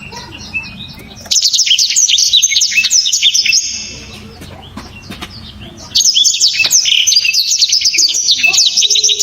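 Blackthroat (black-throated canary) singing loud, sharp, rapid twittering in two bursts of about two and a half seconds each; the second burst begins about six seconds in.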